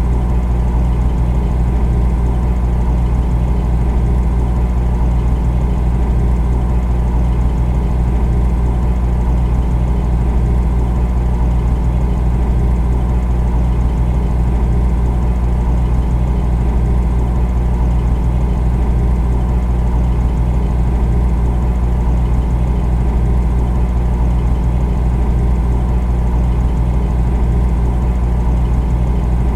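Refrigerator compressor running with a steady low hum that does not change.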